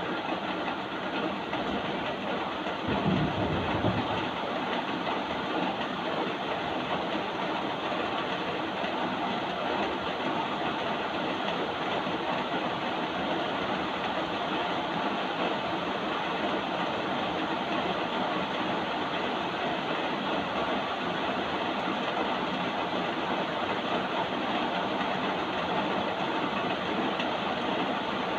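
Steady rain, an even hiss that does not change. About three seconds in there is a brief low thump.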